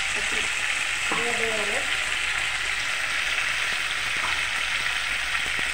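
Sliced onion, green chillies and mint leaves frying in hot oil in a pan: a steady sizzle.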